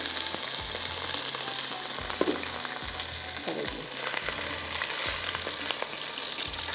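Sliced potatoes frying in hot oil in a pan: a steady sizzle with scattered crackles and pops.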